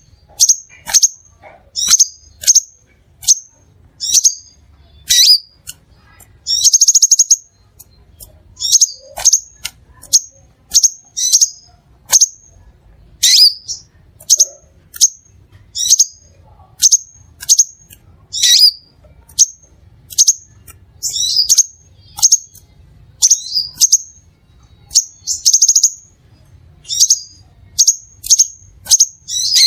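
Crimson sunbird calling: sharp, high chips repeated about once or twice a second, with a few longer buzzy trills among them.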